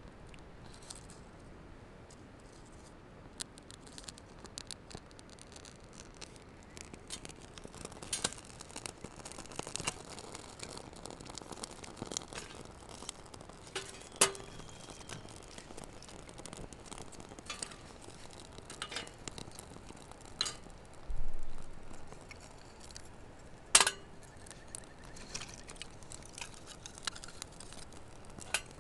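Small wood fire crackling, with irregular sharp snaps and ticks that grow more frequent as it goes. Twice a louder click rings briefly like light metal, and there is a short rustling noise about two-thirds of the way in.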